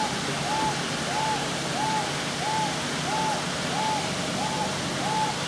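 A bird's hooting call repeated at a steady pace: about eight short hoots, each rising and falling in pitch, roughly one and a half a second.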